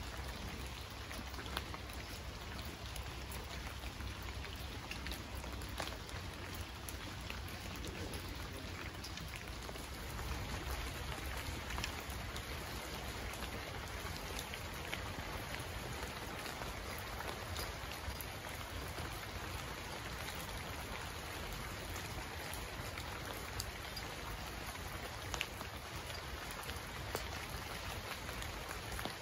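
Heavy rain falling steadily, an even rushing hiss dotted with scattered sharp ticks of individual drops.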